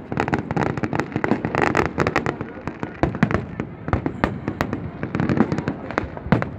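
Fireworks display: a dense, rapid crackle of sharp pops and bangs, with a few deeper booms standing out over it.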